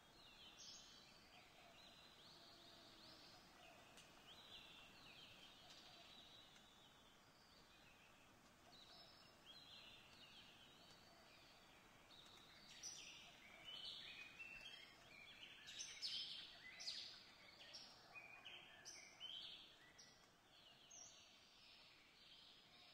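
Faint birdsong: many short chirps and twitters, sparse at first and busier and louder past the middle.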